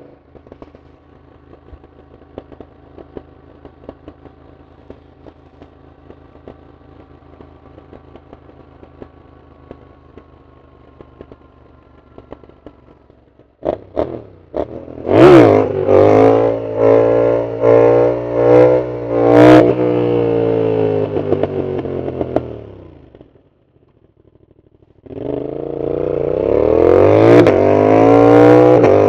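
Yamaha MT-07's CP2 parallel-twin engine with a full aftermarket exhaust, running steadily at low revs for about thirteen seconds. Then come a couple of sharp throttle blips and a hard acceleration through several rising revs. It eases off and fades almost away for a moment, then revs up loudly again near the end.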